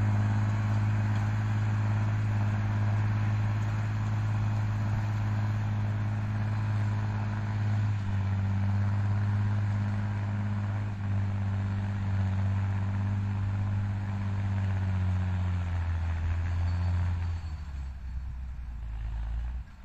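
Fendt tractor's diesel engine running steadily while pulling a Vogel&Noot plough. Near the end its note drops in two steps and gets quieter as the engine slows down.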